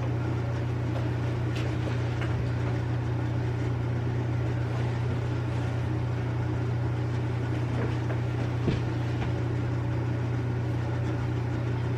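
A steady low hum, with a few faint clicks and a single sharper tap near the end.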